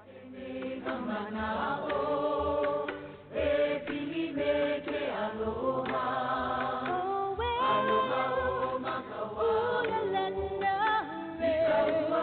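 Choral music: several voices singing a cappella over a steady low hum.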